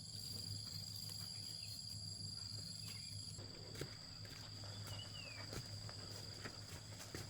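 A steady, high-pitched insect chorus, with a low hum underneath and a few faint knocks.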